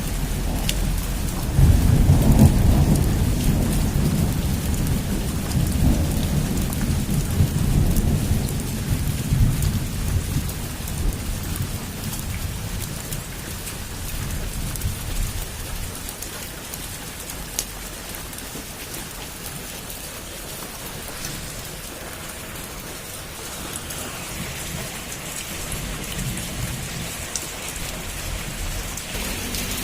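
Heavy rain falling on a roof, a steady hiss dotted with sharp drop ticks. A long low roll of thunder swells about two seconds in and fades away over the following ten seconds or so.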